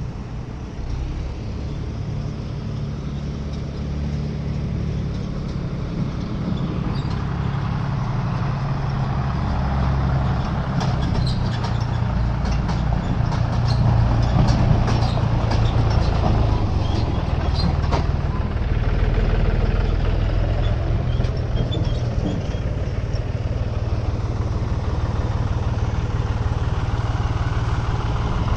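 Heavy diesel engines of a backhoe loader and tractor running steadily, working harder and louder from about ten seconds in. A scatter of sharp clicks and knocks comes between about eleven and eighteen seconds.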